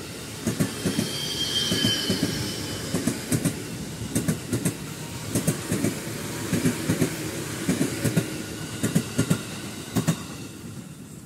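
Electric commuter train passing close by, its wheels clattering over rail joints in a steady run of paired clicks. A faint high wheel squeal comes in about a second in, and the train sound fades near the end.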